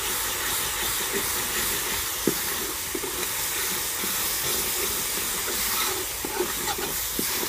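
Wet ground green chilli, tomato and ginger paste sizzling hard in hot oil and masala in a steel karahi (wok), a steady steaming hiss. A ladle stirs through it with a few light knocks against the pan.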